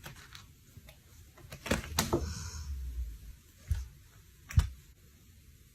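A few scattered knocks and thumps in a small room, with a short stretch of rustling about two seconds in.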